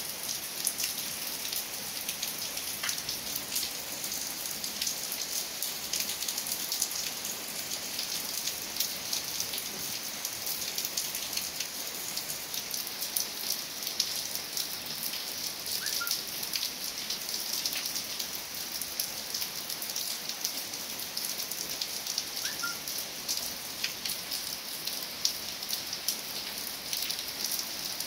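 Steady rain falling on leaves, gravel and puddled ground: an even hiss with many separate drops ticking through it. Two faint short chirps are heard briefly in the second half.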